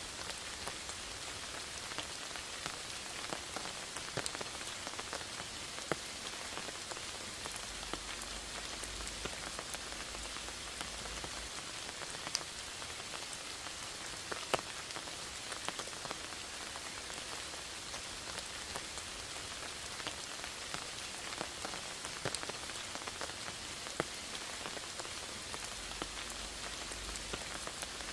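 Steady rain falling on forest foliage, an even hiss with scattered sharper drop ticks. A faint low rumble comes in about eight seconds in and again near the end.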